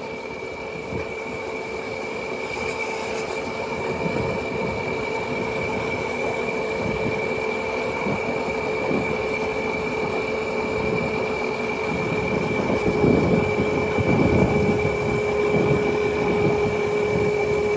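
Motorcycle running at a steady speed: its motor gives a steady, even whine over rumbling road and wind noise. The sound slowly grows louder.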